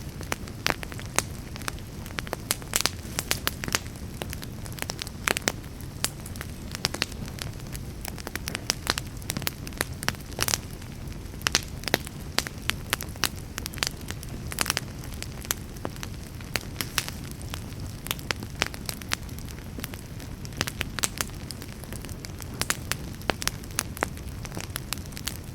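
Wood fire burning in a fireplace: a low steady rumble of flame with frequent irregular sharp crackles and pops.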